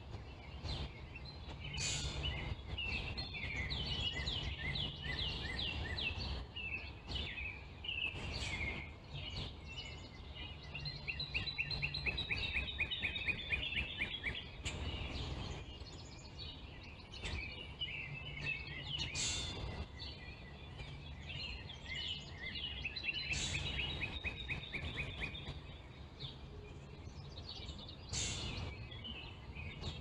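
Several songbirds singing at once, with rapid repeated trills and chirps and a few sharp high notes now and then, over a steady low hum.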